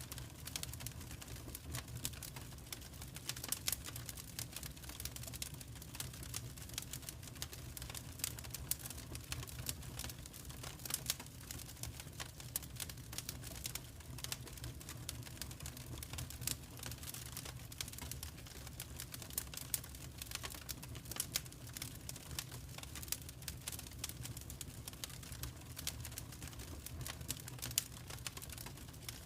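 Fireplace fire crackling: irregular small pops and snaps over a steady low rumble.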